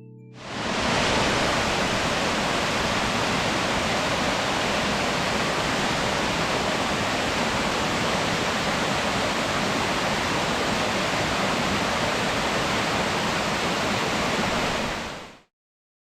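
Waterfall rushing in a steady, even roar of falling water. It starts about half a second in and cuts off abruptly near the end.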